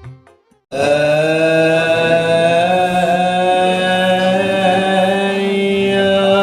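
Selawat dulang singing: after a short musical passage dies away and a brief gap, a singing voice comes in about three-quarters of a second in and holds one long, steady chanted note with a slight waver and no tray beats.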